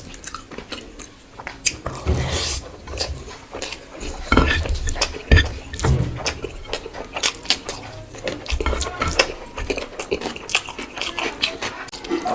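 Close-up eating sounds from a rice-and-curry meal: a steady string of short clicks and clinks against a plate, mixed with chewing, and a few heavier dull knocks.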